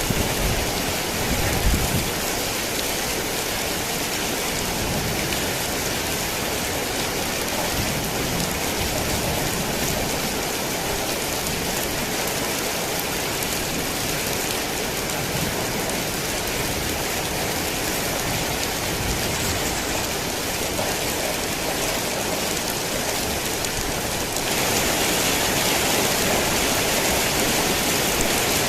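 Heavy rain falling steadily, with a low rumble in the first couple of seconds; the rain gets louder about 24 seconds in.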